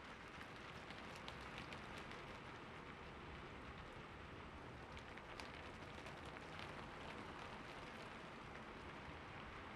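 Steady rain falling on a surface, with scattered individual drops ticking sharply over the even hiss.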